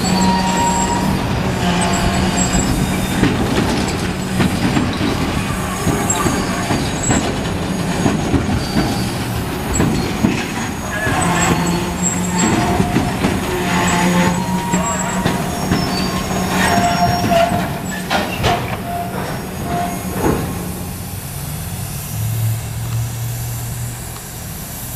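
Autorack freight cars of a CSX train rolling slowly past, the wheels clattering and rumbling on the rails with scattered high wheel squeals. The sound eases off over the last several seconds as the train slows to a stop.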